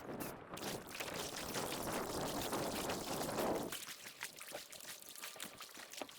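Kayak paddle pulling through water, with water pouring and splashing off the blade. About two-thirds of the way in the splashing stops, leaving scattered small drips.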